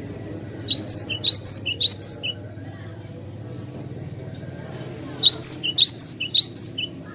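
Cinereous tit (glatik batu) singing: two quick bouts of rapidly repeated high-pitched notes, each about a second and a half long, the first near the start and the second about five seconds in.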